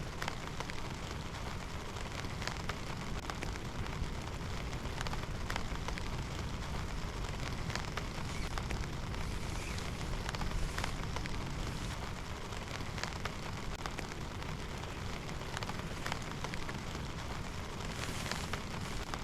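Steady rain, with scattered sharp taps of drops striking a surface.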